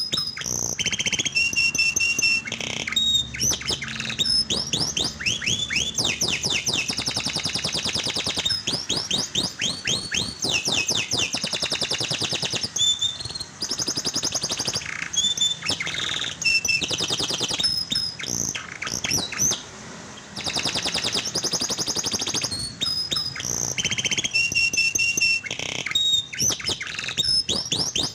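Domestic canary singing a long, rolling song of fast trills and quick rising and falling sweeps, with short pauses between phrases. This is the kind of song played to coax a silent canary into singing.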